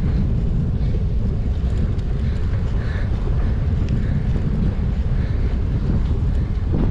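Strong wind buffeting the microphone, a steady loud low rumble, as a cyclist rides into a headwind.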